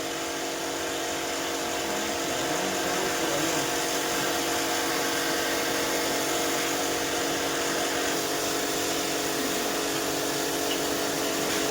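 A small electric power tool's motor running steadily with an even hum, getting slightly louder about two seconds in.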